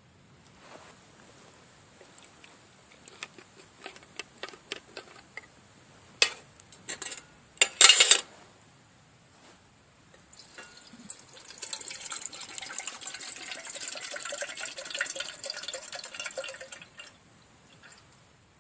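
A few light clicks and knocks, then water poured into a vessel for about six seconds, a steady splashing pour.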